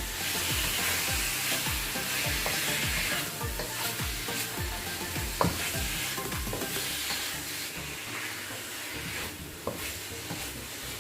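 Beef pieces sizzling as they stir-fry in hot olive oil, with a few sharp knocks of the spatula against the pan. The sizzle is loudest in the first few seconds.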